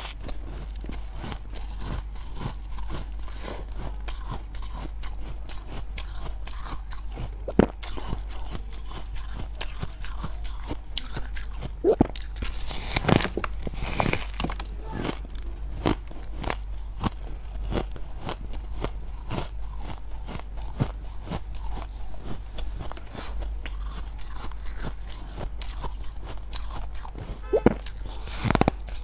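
Freezer frost being bitten and chewed close up: irregular crisp crunches throughout, a few louder bites around the middle and near the end, over a steady low hum.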